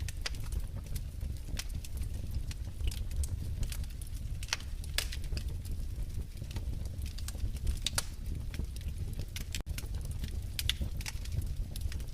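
Wood fire in a fireplace crackling, with irregular sharp pops and snaps, a few louder than the rest, over a steady low rumble of the flames.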